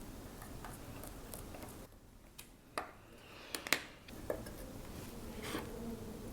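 Faint small clicks and taps of metal watchmaker's tools on a watch movement during disassembly, a few sharper clicks a little past the middle.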